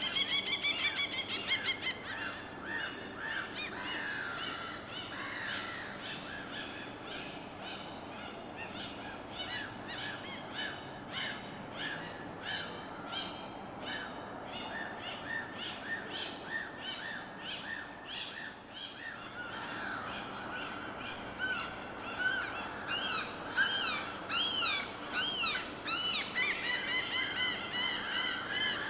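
A mixed chorus of birds calling and chirping, many short overlapping calls at once, with a run of loud rising-and-falling calls about three-quarters of the way through, over a faint steady hiss.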